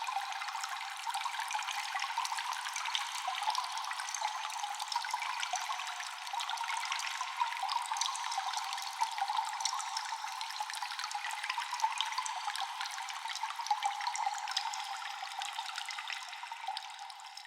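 Water dripping and trickling in a cave: a constant patter of many echoing drops that thins and fades near the end.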